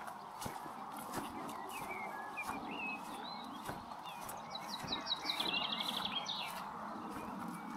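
Songbirds calling, several short chirps followed about halfway through by a rapid trilled song, over footsteps crunching regularly on gravel and a steady rushing background.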